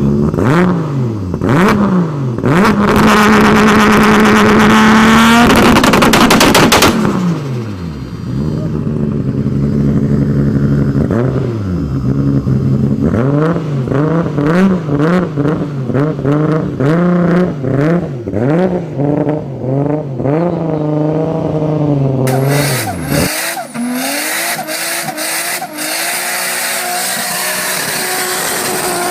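Toyota Supra MKIV's twin-turbo 2JZ-GTE straight-six being revved. The revs rise and fall repeatedly, are held high for a couple of seconds, then come as a long run of quick blips. About 23 s in, the sound cuts to another Supra recording.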